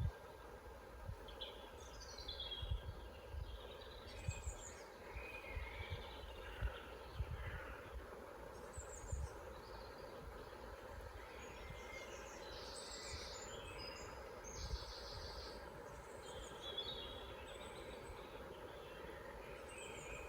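Several woodland birds singing and calling in scattered short chirps and trills over a steady background hiss, with irregular low thumps.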